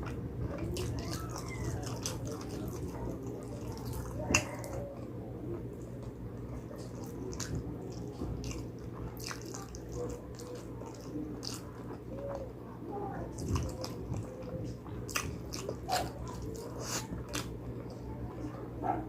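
A person chewing and biting into spicy pig trotters, with many small wet mouth clicks and smacks, one sharper click about four seconds in, over a steady low hum.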